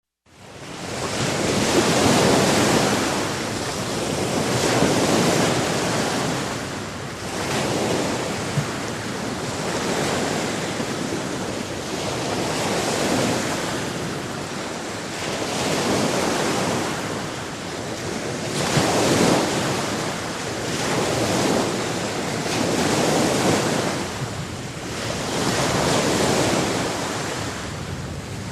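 Sea surf: waves breaking and washing in over and over, the rush of water swelling and ebbing about every three seconds. It fades in over the first second.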